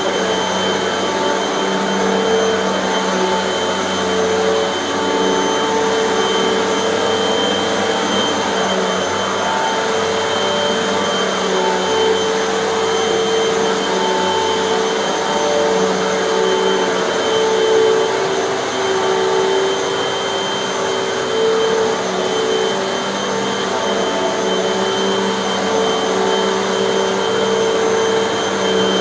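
Hoover bagless vacuum cleaner running steadily over carpet, a continuous motor whine with a high steady tone and a lower hum that wavers slightly as it is pushed back and forth.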